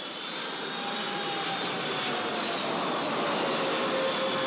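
Boeing 777 jet engines running on landing approach: a steady jet roar with a faint whine that slowly falls in pitch.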